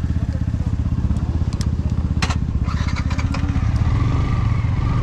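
Motorcycle engine running steadily under way, its low even firing pulse constant, with a few short sharp clicks and rattles in the middle.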